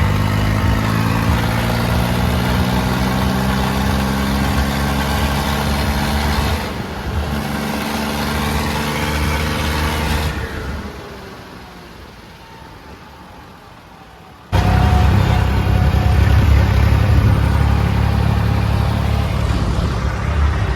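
Tractor engine running loud and revving, its pitch rising over the first several seconds, then dying away. Heavy engine noise comes back abruptly about two-thirds of the way in.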